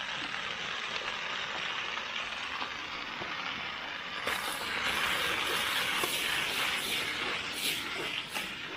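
Potato, onion and pork stir-fry sizzling in an uncovered pot, a steady hiss with small crackles that grows louder about four and a half seconds in.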